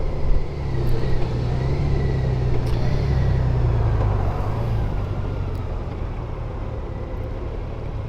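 Motorcycle engine running steadily at road speed, with road and wind noise. It eases off gradually in the second half, as if the rider is rolling off the throttle.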